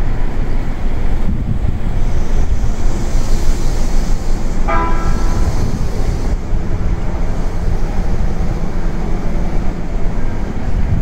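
JR East E233-series electric train running at the platform, a loud steady rumble. About halfway through comes a brief higher-pitched tone lasting around half a second.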